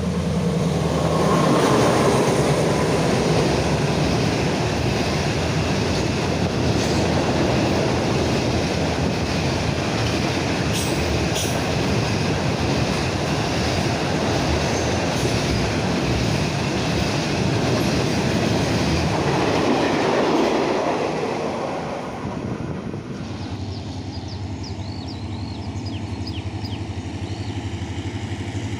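A train passing close by, loud for about twenty seconds before it fades away. A quieter, steady low engine hum is left once it has gone.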